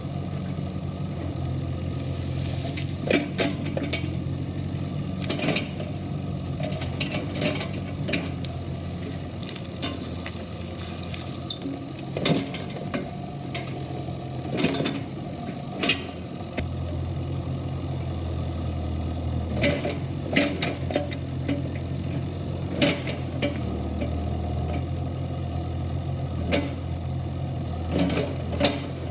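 Kubota KX71-3 mini excavator's diesel engine running steadily, its note shifting a few times as the machine is worked, with scattered sharp knocks and clanks throughout.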